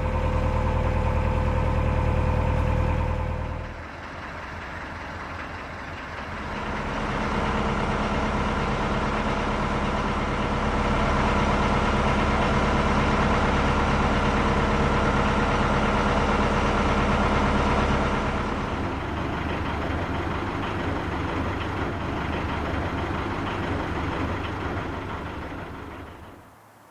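A narrowboat's diesel engine runs steadily at cruising revs. Its level and tone shift abruptly a few times: it drops about four seconds in, rises again around seven seconds, and drops again near the end.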